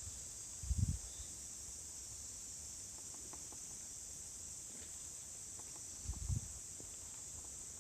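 Steady high-pitched chorus of insects, with two short low thuds, one about a second in and one about six seconds in.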